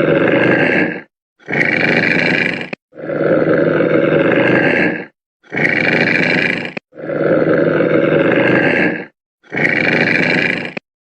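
A large animal's roaring call, played as a repeated sound effect: a long low call, then a shorter higher one, the pair coming three times over.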